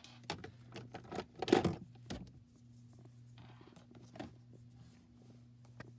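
Small objects being handled while an ice cream cone is got ready: scattered light clicks, taps and scrapes, the loudest cluster about one and a half seconds in, over a steady low hum.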